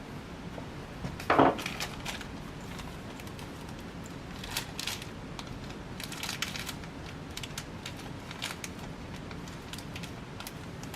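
Objects being handled and set down: one loud knock about one and a half seconds in, followed by scattered light clicks and rustling.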